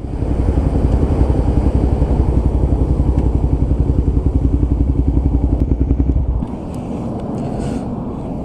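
Motorcycle engine running with a rapid, even low pulse, dropping to a lower, steadier level about six and a half seconds in.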